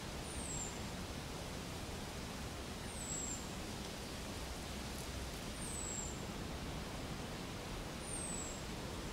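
Steady outdoor hiss with a bird calling over it: a thin, very high whistle that falls slightly in pitch, given four times about two and a half seconds apart.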